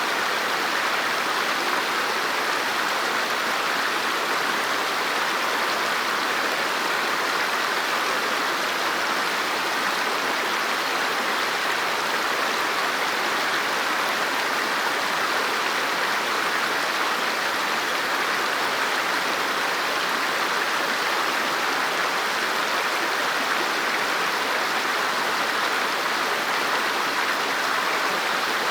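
River water flowing and rushing over rocks, a steady even splashing noise with no change.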